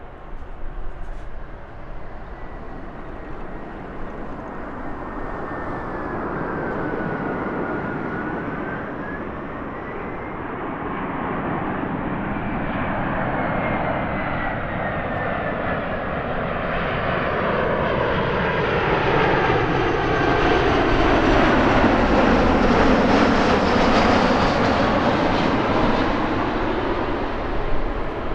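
Airbus A340-300 airliner on approach to land, its four CFM56 turbofan engines growing steadily louder as it nears and passes, loudest about three-quarters of the way through. A high whine wavers in pitch during the first half.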